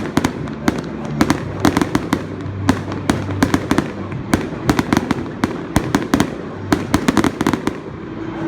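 Fireworks going off in a rapid, irregular series of sharp bangs and cracks, several a second, which stop shortly before the end.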